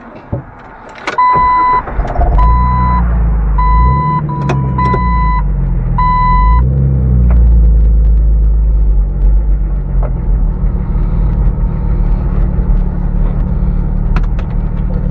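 Jeep TJ's 4.0-litre inline-six starts after a brief crank and keeps running, its Flowmaster FlowfX exhaust heard from inside the cabin. A dashboard warning chime sounds about six times over the first seven seconds.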